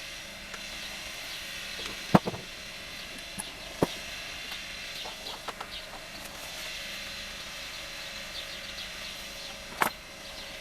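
Metal tools clinking on engine parts a few times, sharpest about two seconds in and again near the end. Birds chirp in the background over a steady hiss.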